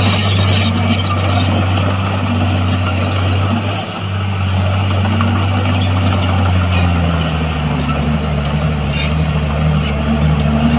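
Heavy diesel engine of an earthmoving machine running with a steady low drone, its pitch wavering and shifting partway through as the load changes.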